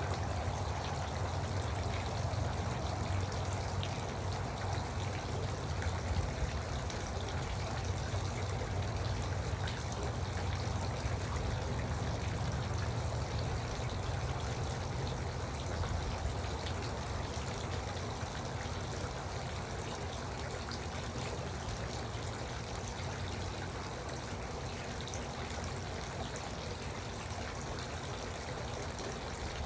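Garden water fountain running, its water trickling and pouring steadily without a break.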